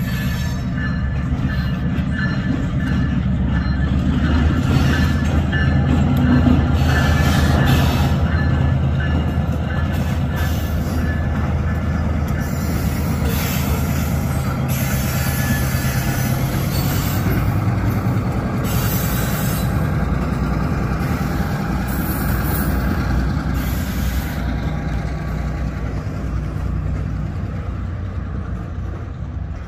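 Freight train cars rolling past, a steady heavy rumble with thin wheel squeal at the start and repeated clacks of wheels over the rails through the middle. It is loudest about a quarter of the way in and slowly fades as the train moves off.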